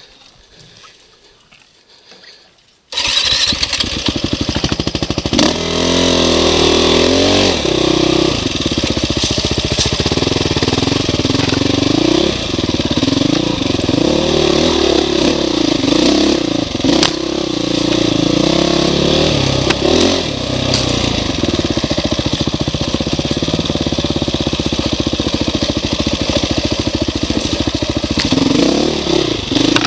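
Dirt bike engine running hard on a trail, its revs rising and falling as the throttle is worked. It is much quieter for about the first three seconds, then comes in loud and suddenly.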